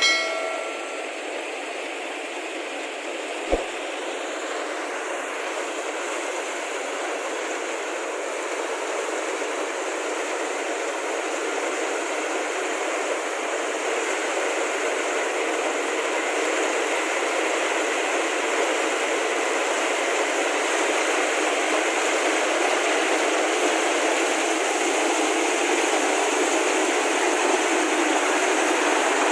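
Combine harvester running while harvesting paddy: a steady mechanical noise that grows gradually louder, with one sharp click about three and a half seconds in.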